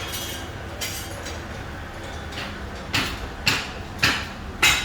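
Sharp metallic knocks with a short ring: metal being struck or clanked. There are about five, bunched in the second half, over a steady low hum.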